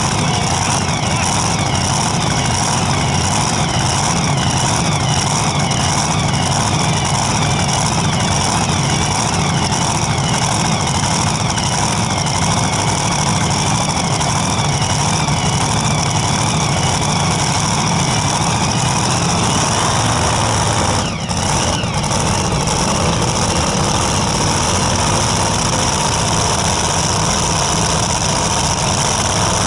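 Competition pulling tractor's engine at full throttle during a hook, a loud, steady engine sound with its pitch wavering, dipping briefly about two-thirds of the way through.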